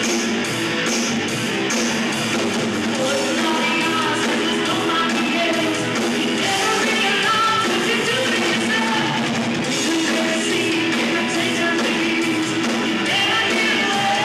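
Rock band playing live, electric guitars and drums with a singer.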